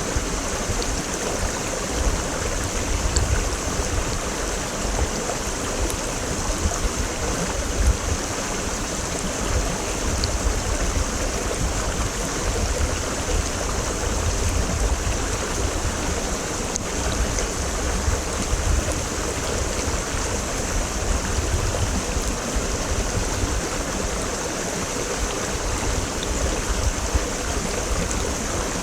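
Mountain stream (quebrada) flowing and splashing over rocks, a steady rushing noise with a low churning rumble.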